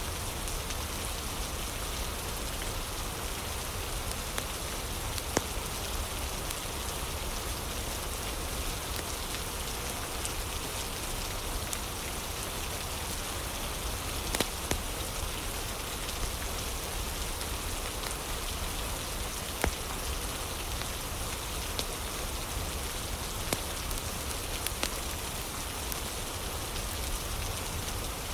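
Steady rain falling, with a few sharp, scattered pops and crackles from a wood fire.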